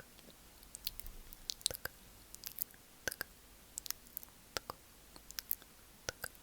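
Close-miked ASMR mouth sounds: sharp, wet clicks and smacks of the mouth. They come irregularly, several a second, with short pauses between.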